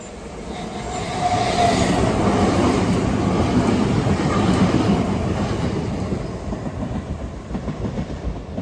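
Passenger train passing through the station without stopping: the rumble and wheel clatter build up quickly, hold, then die away. A brief short toot on the train's horn, a depot whistle, sounds about a second and a half in, bending in pitch as the train goes by.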